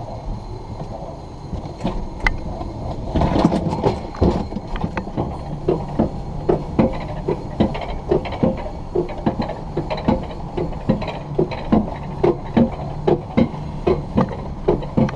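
Alpine coaster sled being hauled up the lift on its tubular steel track, clicking regularly about twice a second from about six seconds in, over a low steady hum.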